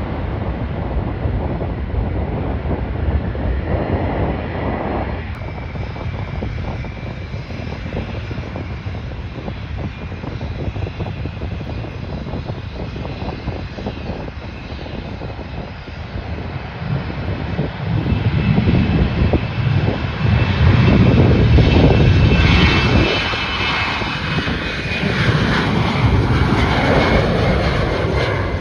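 Airliner engines at an airport, growing louder about two-thirds in and running with a high whine near the end.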